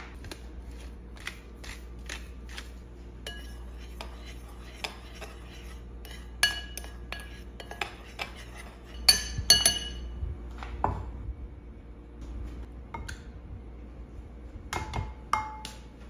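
Dishes and cutlery clinking: a run of light clicks and taps, then a cluster of louder ringing clinks about nine seconds in and a few more near the end. A steady low hum runs underneath.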